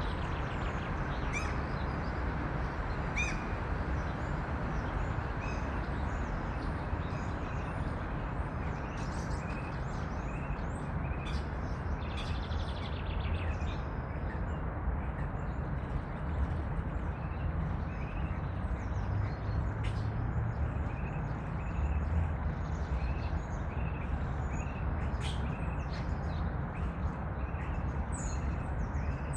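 Wild birds chirping and singing, with short chirps throughout and one bird repeating a short high note about every half second in the second half. Under them runs a steady low rumble.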